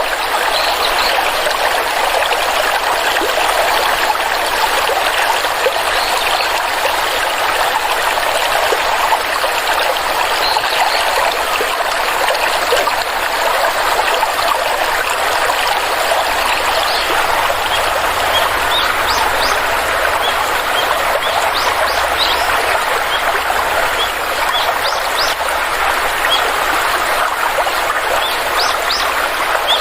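Flowing stream with water running over rocks, a steady rushing and trickling. Short high chirps sound now and then, more often in the second half.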